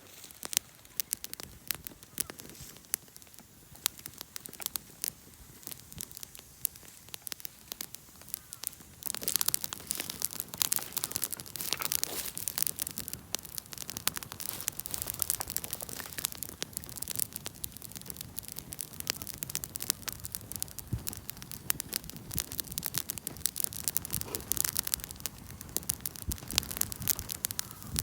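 Wood campfire crackling and popping in a quick, irregular run of sharp snaps, growing busier and louder about nine seconds in.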